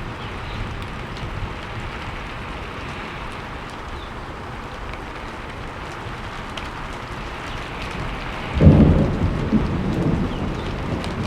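Steady rain falling, with a sudden thunderclap about eight and a half seconds in that rumbles low and dies away over a couple of seconds.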